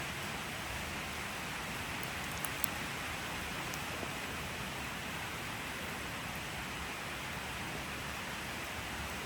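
Steady rain, an even hiss, with a couple of sharper drop ticks about two and a half seconds in.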